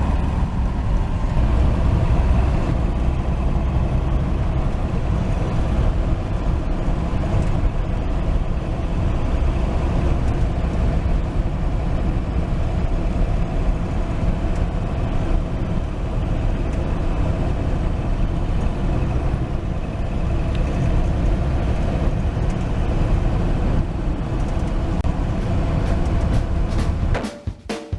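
1949 Chevy 3100 pickup's 235 cubic-inch inline-six running steadily through its dual exhaust at cruising speed, with road noise. The sound drops away briefly near the end.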